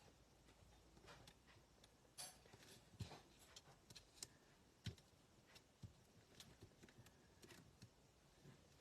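Near silence with faint, scattered taps and rustles of paper and card being handled on a desk.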